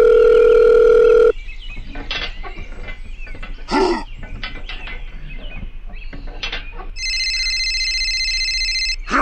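Telephone sound effects. A loud, steady dial-tone-like hum cuts off sharply about a second in. Scattered small clicks and knocks follow, then a steady high electronic ringing tone for about two seconds near the end.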